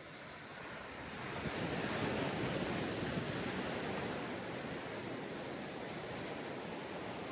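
Sea waves washing onto a beach: a wave builds about a second in, breaks and rushes up the sand, then eases into a steady wash.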